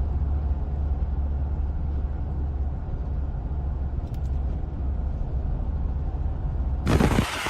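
Steady low rumble of a car driving, engine and road noise. About seven seconds in it breaks off into a sudden loud burst of noise, followed by a rushing hiss.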